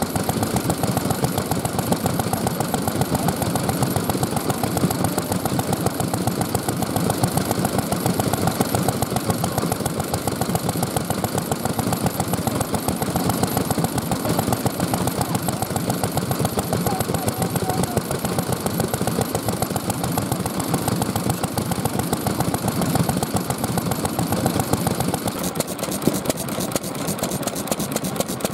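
Vintage Japanese stationary oil engines (hatsudouki) running steadily, with an even, fast beat of firing strokes.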